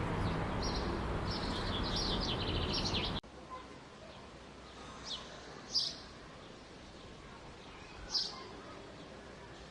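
Small birds chirping in quick twittering runs over a steady hum of city noise. About three seconds in the noise cuts off abruptly to a much quieter background, where single short chirps, each falling in pitch, sound three times.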